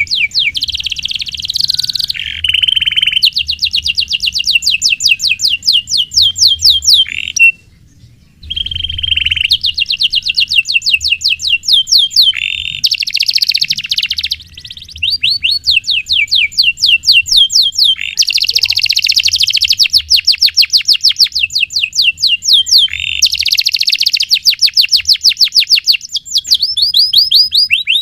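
Canary singing long, fast rolls of rapidly repeated trilled notes, phrase after phrase, with a short pause about eight seconds in.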